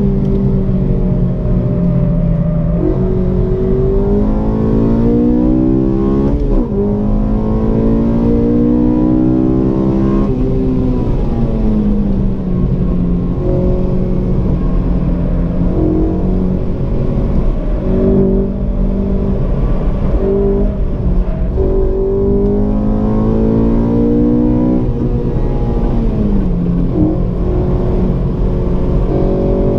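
Honda Civic Si's 2.0-litre i-VTEC four-cylinder heard from inside the cabin under hard driving. It revs up in long rising sweeps and drops back sharply several times as the car accelerates and lifts off.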